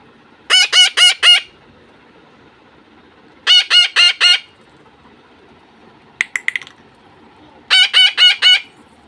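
Pet parakeets screeching in three bursts of about four rapid harsh calls each. A few quick clicks come about six seconds in.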